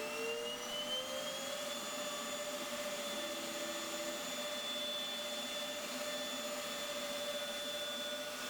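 CNC router spindle spinning up, its whine rising in pitch over the first couple of seconds and then running steadily at speed, over a steady hiss.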